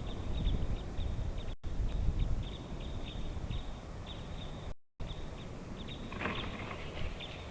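Black woodpeckers calling: many short, sharp call notes repeated irregularly, with one longer, fuller call about six seconds in, over a steady low rumble. The sound cuts out completely twice, briefly.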